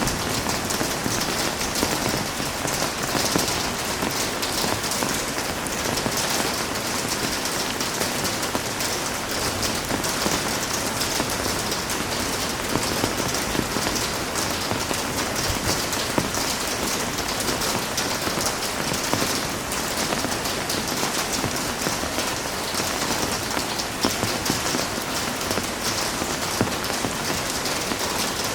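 Heavy rain falling steadily, a dense even patter with scattered drop ticks.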